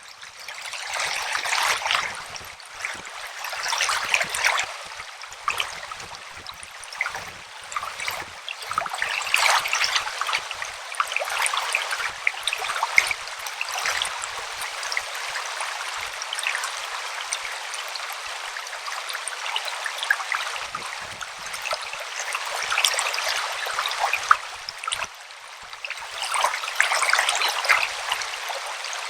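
River water running over rocks: a steady splashing rush that swells louder every few seconds.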